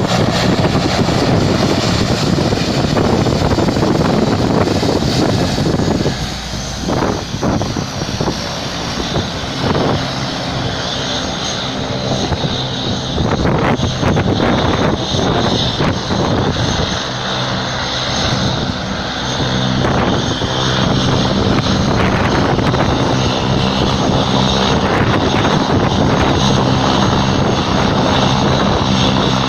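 Single-engine propeller plane's engine running, with noisy rumble early and a steady droning engine tone through the second half.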